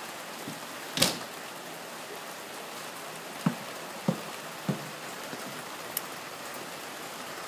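Steady rain falling, an even hiss. A sharp click about a second in, and three short knocks evenly spaced around the middle.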